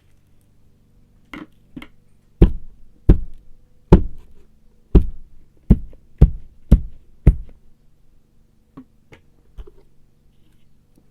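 A run of sharp knocks: two light ones, then eight loud ones roughly one to two per second, then a few faint taps, over a faint steady hum.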